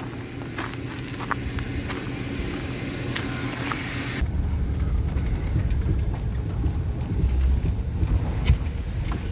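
Short clicks and steps over a steady hum, then about four seconds in an abrupt change to the low, even rumble of a 2014 Ford Econoline E-250 van driving.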